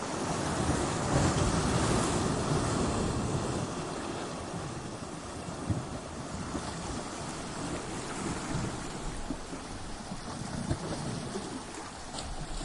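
Ocean waves breaking against coastal rocks: a surge builds to a loud crash in the first few seconds, then drains into a lower hissing wash with a few sharp splashes.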